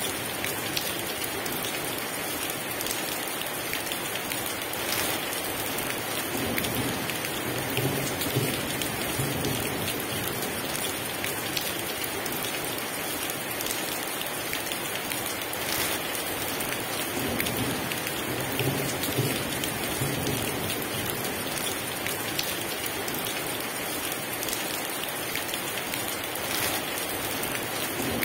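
Heavy rain falling steadily and densely, with many single drops pattering on a surface. Low rumbles of distant thunder rise and fade beneath it a few times.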